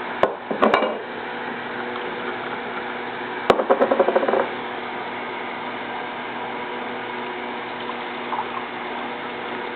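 Ice-cold drink pouring from a King Seeley stainless steel thermos as a steady hiss, with ice clinking in the cup near the start and again about three and a half seconds in.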